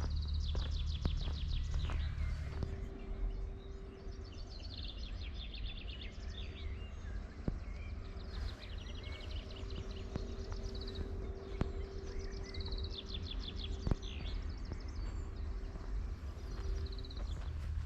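Songbird singing short, rapid trilled phrases, repeated every two seconds or so, over a low outdoor rumble and a faint steady hum.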